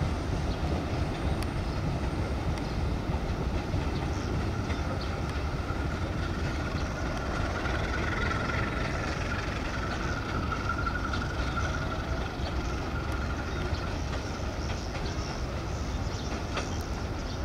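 Diesel-hauled passenger train running steadily on the rails, a low rumble of wheels and coaches with faint clicks over rail joints, and a faint high tone through the middle.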